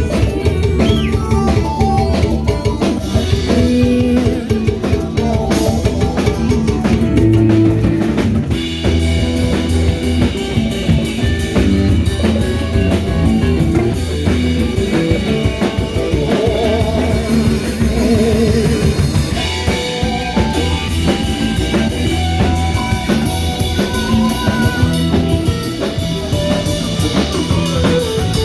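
Live band playing an instrumental jam: drum kit keeping a steady beat under guitar, with no singing.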